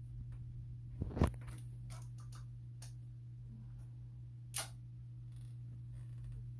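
A few small clicks and knocks, the loudest about a second in and another sharp one about four and a half seconds in, over a steady low electrical hum.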